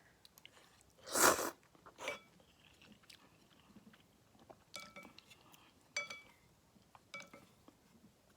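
Eating ramen noodles: a loud, noisy half-second slurp about a second in, a shorter one a second later, then chewing and three light ringing clinks of a utensil against the bowl.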